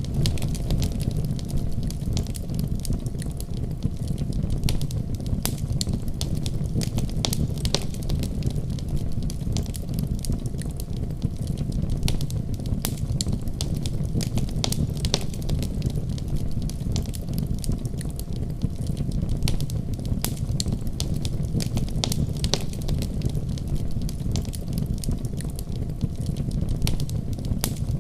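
Wood fire burning in a fireplace: a steady low rumble of flames with many irregular, sharp crackles and pops.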